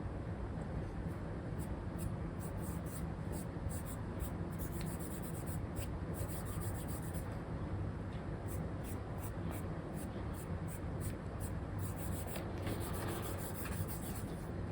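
Stylus nib scratching across a paper-like screen film while drawing: many short strokes, with longer continuous passes about five seconds in and again near the end, over a steady low hiss.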